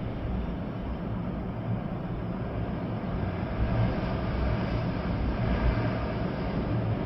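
Storm wind gusting through trees with rain, a heavy low rumble of wind buffeting the microphone underneath. A gust swells about halfway through and eases off again.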